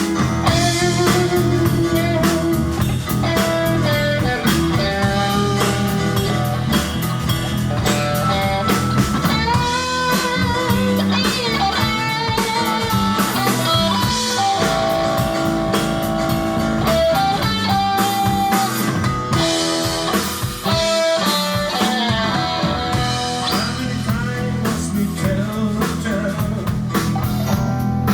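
A live blues-rock band playing: a lead guitar plays bending, wavering notes over drums and bass.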